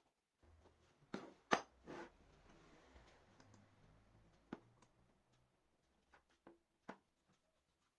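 A few light, sharp clicks and knocks, the loudest about a second and a half in, over a faint low hum that fades out about halfway through.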